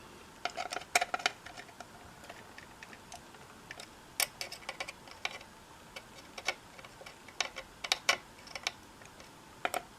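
Small metal clicks and ticks, irregular and in short clusters, as a screwdriver and small screws work against a radio's sheet-metal chassis while a tube socket is screwed down.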